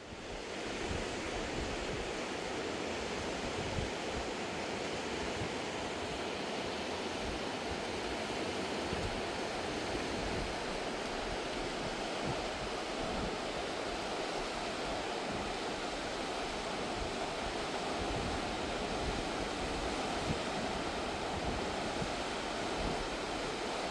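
Fast-flowing mountain river rushing over rocks: a steady, dense roar of water, with some wind buffeting the microphone.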